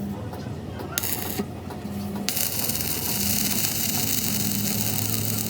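A couple of sharp metal clicks, then from about two seconds in a steady high hiss, over an intermittent low hum.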